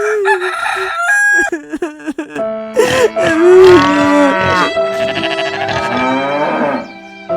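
Farm animals calling in alarm, among them a long cow moo about three seconds in and rooster-like crowing, over steady background music.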